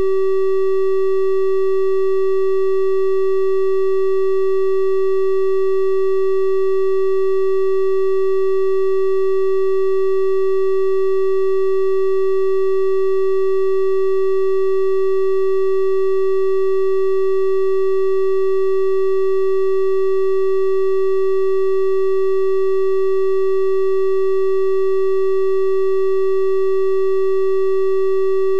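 Synthesised 384 Hz triangle-wave test tone, held at one unchanging pitch, with faint higher overtones above the main note.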